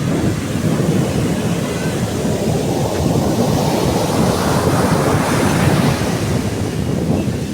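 Sea waves breaking and washing up a beach, with wind buffeting the microphone. A wave surges and grows louder around the middle, then eases off near the end.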